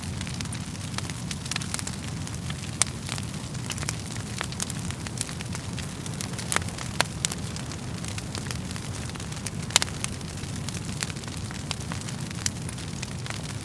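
Wood fire crackling in a fireplace: irregular sharp pops and snaps, a few louder than the rest, over a steady low rush of the flames.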